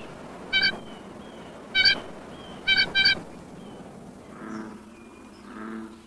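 Bird calls: five short, nasal honks in the first three seconds, the last two in quick succession, then two fainter, lower calls near the end.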